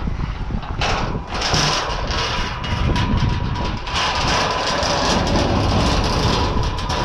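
A vehicle running as it manoeuvres, with a steady low rumble and a hiss of wind or road noise that rises about a second in.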